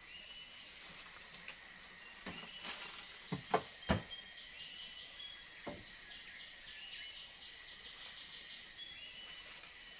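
Steady jungle insect chorus with high buzzing and repeated short chirps. A few sharp knocks land about two to four seconds in, the loudest pair close together, and one more a couple of seconds later.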